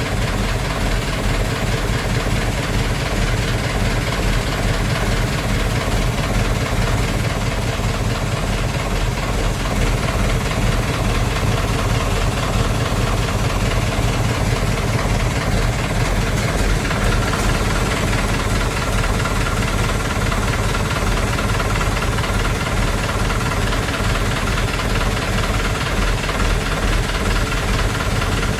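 Engine idling steadily with an even low note and no revving. A faint higher whine joins about two-thirds of the way in.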